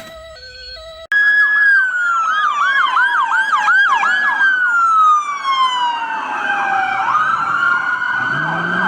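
Electronic police siren that starts suddenly after about a second of music. It plays a slow wail falling in pitch, overlaid with fast repeated up-and-down yelp sweeps.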